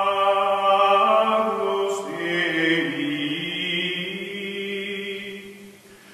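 Music of chanting voices holding long, sustained notes; the chord shifts about two seconds in, and the sound fades near the end.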